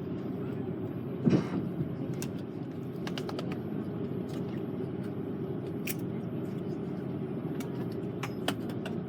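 Steady low cabin rumble inside an Airbus A330-300 on the ground after landing, with scattered small clicks and one louder knock about a second in.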